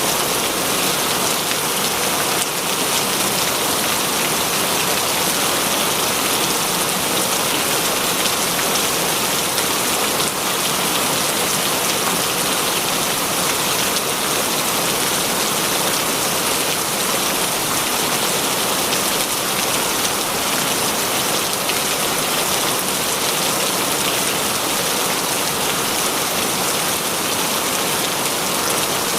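Heavy, steady rain falling, an even hiss of many drops with no thunder or other events.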